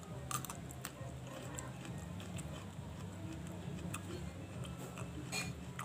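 Close-up chewing of a cabbage leaf, with wet mouth clicks and smacks at irregular moments, over a steady low hum.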